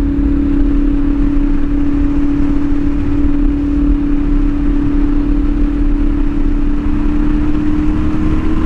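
CFMOTO 450SS parallel-twin engine with an aftermarket slip-on exhaust, pulling at a steady cruise with one even engine note that climbs slightly near the end. Heavy wind rumble on the microphone runs underneath.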